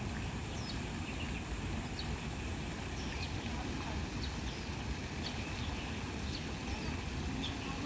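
Small birds chirping in short, high, downward-gliding calls, about one a second, over a steady outdoor hiss and a low rumble.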